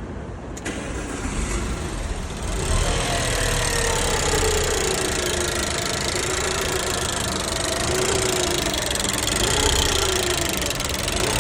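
Alfa Romeo Giulietta QV's 1750 TBi four-cylinder turbo petrol engine starting about two seconds in and then idling, its speed wavering up and down rather than settling. This is the ticking and poor idle that the owner complains of.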